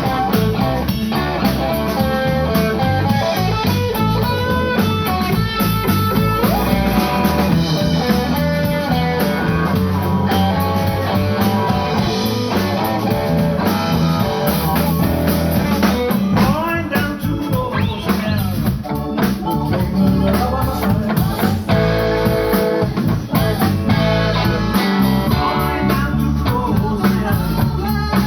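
Live band playing a blues number: guitar lines over a drum kit, with some singing.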